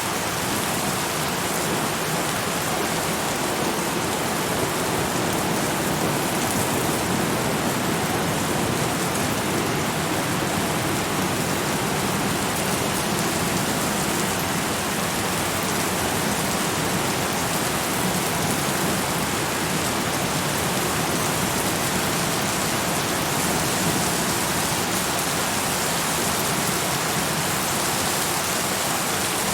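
Steady rain falling on a surface, an even hiss without pause or change.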